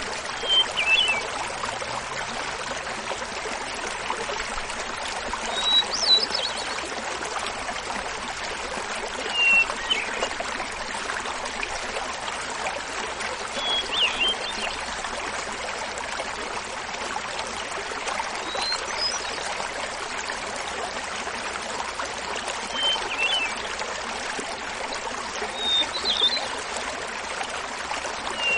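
Small mountain waterfall splashing steadily, with a hermit thrush singing seven short phrases about four seconds apart, each at a different pitch.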